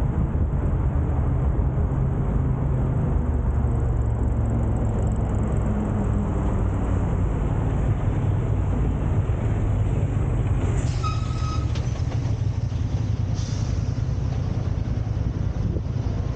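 Steady low rumble of a car driving in city traffic: engine and road noise. About eleven seconds in, a brief high tone with overtones sounds, followed a couple of seconds later by a short hiss.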